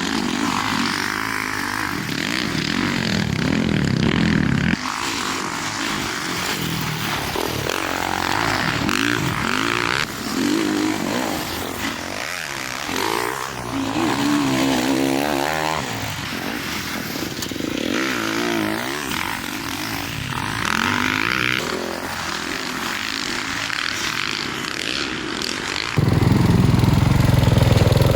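Dirt bike engines revving up and falling back as the bikes ride, in several short stretches that change abruptly. A louder, closer engine sound comes in near the end.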